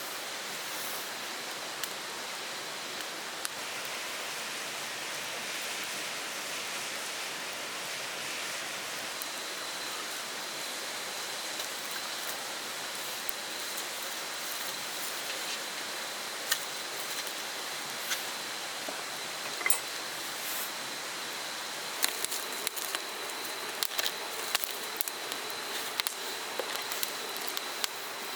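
Steady rushing of a mountain stream. A thin, steady high tone joins about a third of the way in, and scattered sharp clicks and taps come through in the second half.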